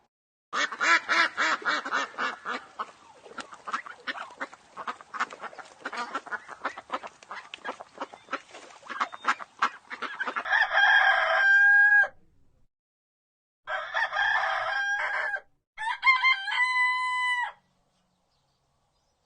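Chickens clucking in a dense run of short, rapid calls for about ten seconds, then a rooster crowing three times in short, separate crows.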